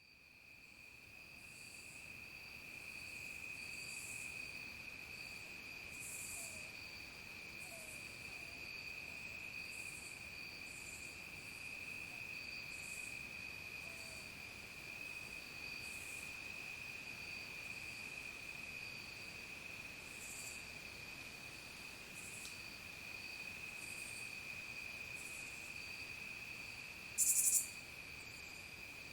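Evening insect chorus: crickets keep up a continuous, steady high trill, while a second, higher-pitched insect calls in short pulses every second or two. It fades in at the start, and one brief, louder, hissy insect call comes near the end.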